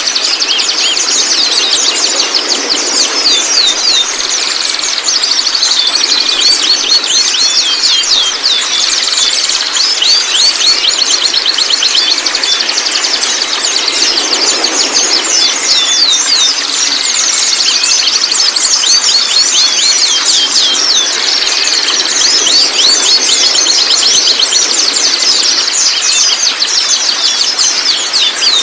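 Young white-rumped shamas giving their juvenile babbling subsong: a dense, continuous stream of rapid high chirps and short falling twitters over a steady high drone.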